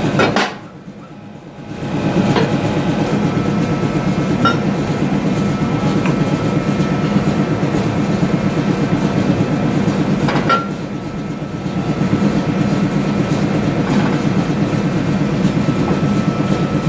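Workshop machinery running steadily with a fast, even clatter, broken by a few sharp metallic clinks.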